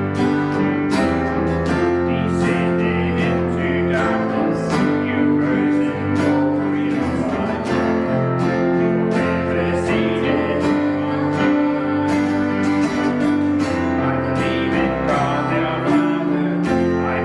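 Worship music led by a strummed acoustic guitar, with sustained notes from other instruments underneath.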